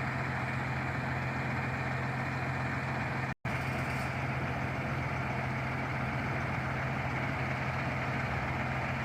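Shingle delivery truck's engine idling with a steady, even hum, cutting out for an instant a little after three seconds in.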